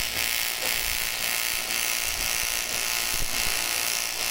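TIG welding arc on aluminium, buzzing and hissing steadily while weld is laid on to build up a boat shaft part.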